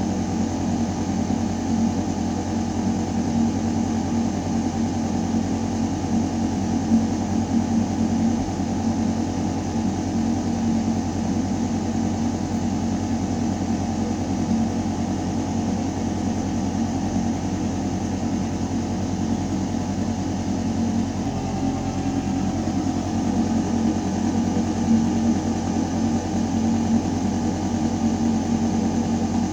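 Building ventilation system running with a steady, low mechanical hum and air rushing through metal ductwork. There is a slight shift in tone about two-thirds of the way through.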